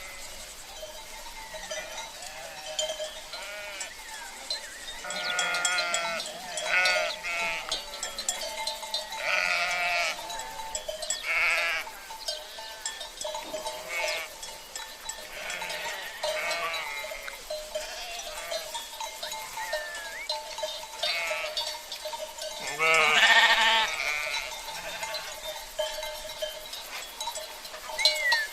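A flock of sheep bleating on and off, several wavering calls with the loudest about two-thirds of the way in, over the steady ringing of cowbells. A faint rushing of river water lies underneath.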